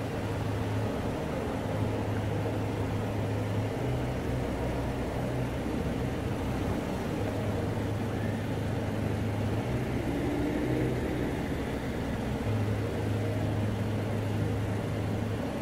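Car engine idling, a steady low rumble that swells and eases in long stretches.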